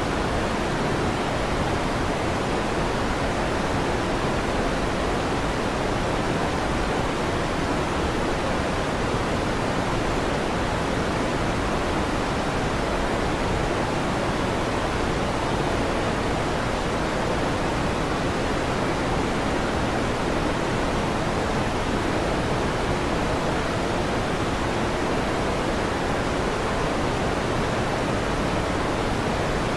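Steady, unchanging rushing noise of an electric fan, used as sleep noise. No thunder rumbles in it.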